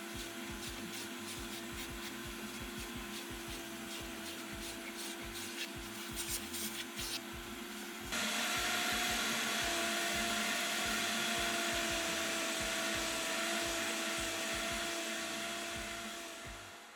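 Vacuum cleaner running as it vacuums a car interior: a steady motor whine with rushing suction. About eight seconds in it gets louder and higher in pitch, and it fades out near the end.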